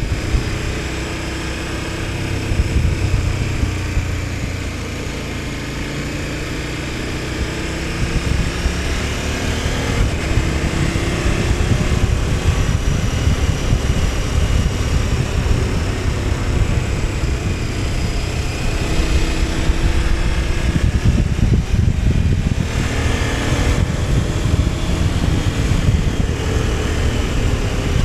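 KTM 1290 Super Adventure S's V-twin engine running on the move, its pitch rising and falling as the revs change, over a steady rush of wind and road noise. It is a little quieter for a few seconds near the start, then picks up again.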